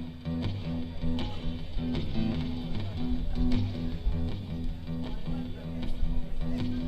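A live band playing: guitar and bass in a steady repeating riff over drums.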